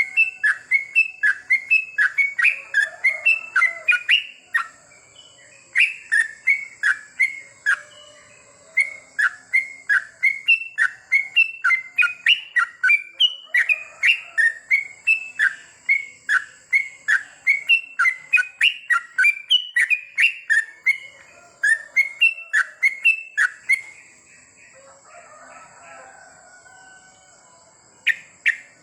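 Yellow-vented bulbul (trucukan) singing a long, rapid run of short whistled notes, about three a second, broken by a few short pauses.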